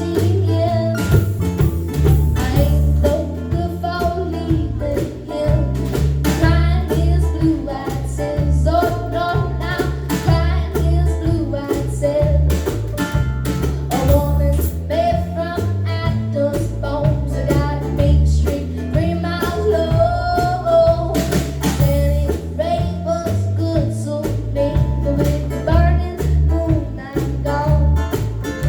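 Live band music: guitar over bass and drums with a steady beat, and a wavering lead melody line.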